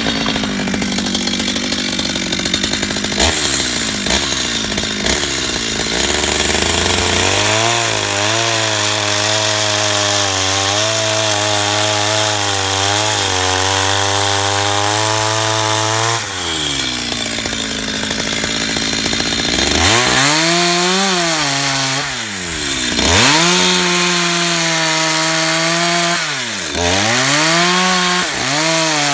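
Chainsaw running and cutting into a wooden log. Its engine note holds steady for several seconds, then in the second half repeatedly drops and climbs back up as the chain bites into the wood and is eased off.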